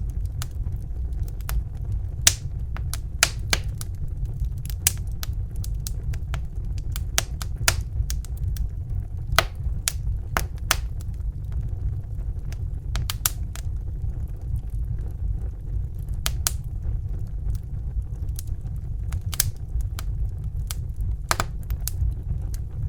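Fire crackling: irregular sharp pops and snaps, several a second at times, over a steady low rumble.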